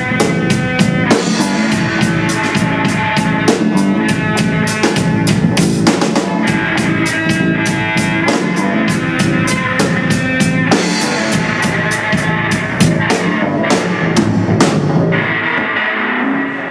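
Live rock-style band music: a drum kit keeps a steady beat under held pitched notes. Near the end the drums stop and a held note rings on.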